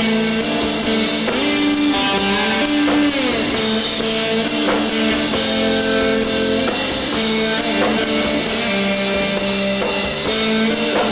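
Rock band playing live: electric guitars holding and sliding between notes over a steady drum kit beat, with no singing.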